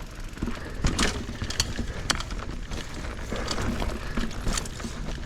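Mountain bike rolling along a wet dirt trail: tyre noise with irregular clicks and knocks from the bike as it goes over bumps.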